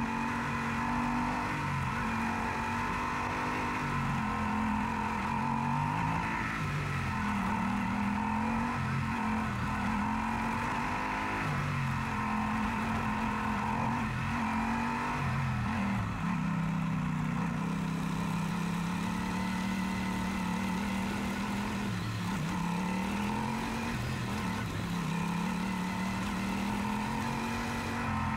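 Yamaha Super Ténéré's parallel-twin engine running steadily under way, its note dipping and picking up again several times as the throttle and speed change.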